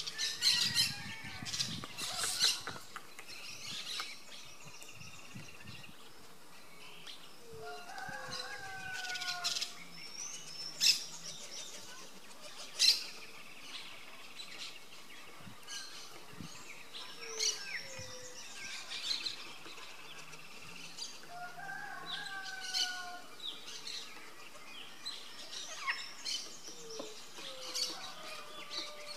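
Birds chirping and calling on and off, with short sharp calls and a couple of brief downward-sliding whistled phrases, over a faint steady low hum.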